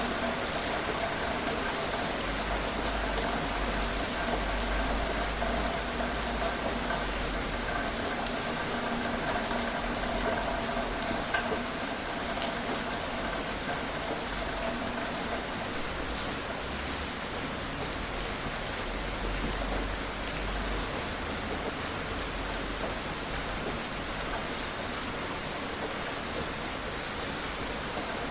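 Steady gentle rain falling, an even hiss with scattered individual drop ticks. A faint steady hum sits under it in the first half and fades out about halfway through.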